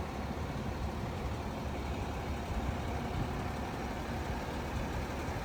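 A Seagrave Attacker fire engine's diesel engine idling with a steady, even low rumble.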